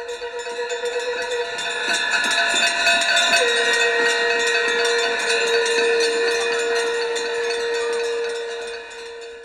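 A long, steady, horn-like held note with many overtones, its pitch dipping slightly a few seconds in, over rapid continuous bell ringing. It swells in at the start and fades out near the end.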